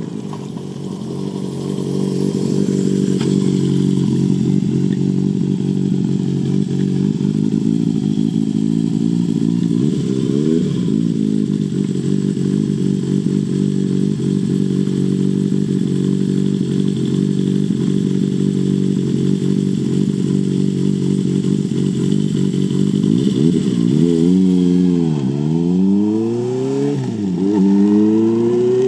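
Honda CB400Four's air-cooled inline-four running through a Yoshimura short exhaust while under way. Revs climb over the first few seconds and hold steady at a cruise, then fall and climb again several times near the end.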